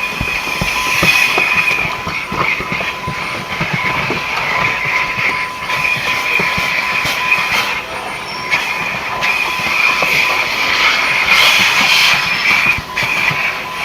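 Vacuum cleaner running, a steady high whine over rushing air. The whine drops out briefly several times, as the nozzle is moved and knocks against surfaces.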